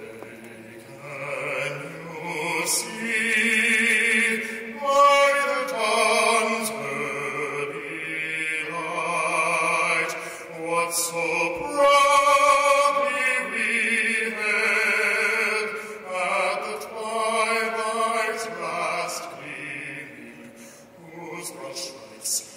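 A solo male singer performing the national anthem, holding long notes with vibrato.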